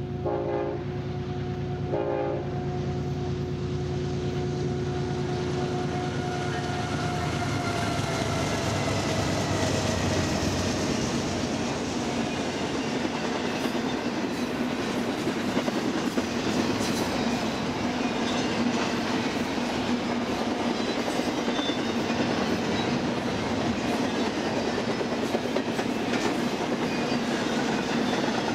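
BNSF intermodal stack train passing. The diesel locomotives' horn sounds two short blasts at the start, and the held tones drop in pitch as the locomotives go by. After that the train settles into a steady rolling rumble, with the clickety-clack of the container cars' wheels over the rail joints.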